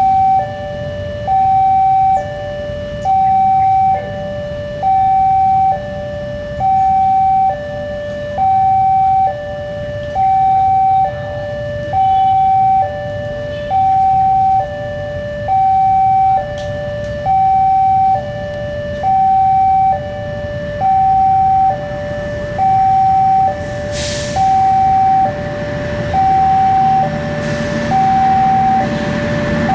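Level crossing warning alarm repeating an electronic two-tone call, a higher note then a lower one, about one cycle every two seconds, over a low rumble of waiting traffic. It signals that a train is approaching.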